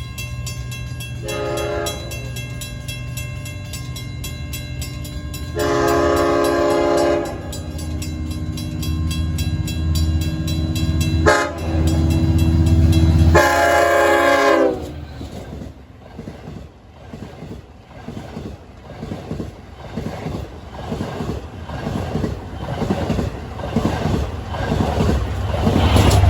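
Long Island Rail Road diesel passenger train sounding its horn for a grade crossing in four blasts, the second and fourth long, over the steady rumble of the locomotive, with a crossing bell ringing. After the last blast the cars pass in a rhythmic clickety-clack of wheels over rail joints.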